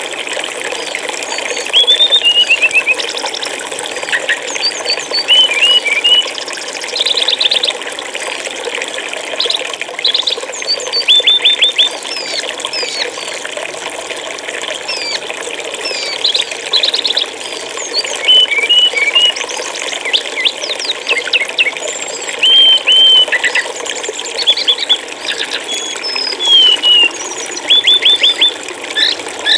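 Short chirps, rapid note-runs and quick up-and-down whistled calls of a brown-chested jungle flycatcher (SRDC), repeated every second or two over the steady sound of flowing water.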